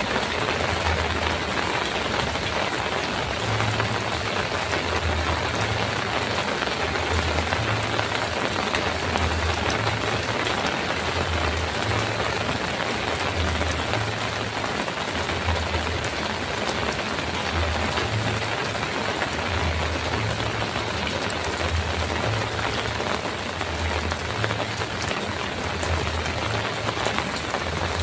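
Heavy rain falling steadily on a metal roof: a dense, even hiss. Underneath it, a low throb repeats about every one and a half seconds.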